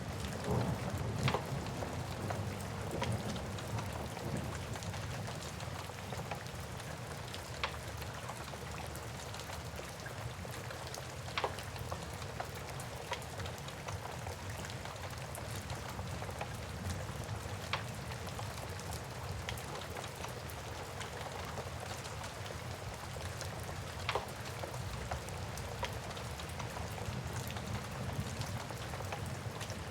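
Steady rain with a low rumble underneath, and the occasional sharp pop of a crackling wood fire every few seconds.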